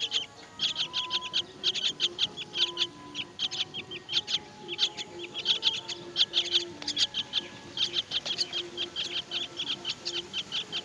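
Myna nestlings begging with rapid, high, repeated chirps, several a second in clusters, without a break.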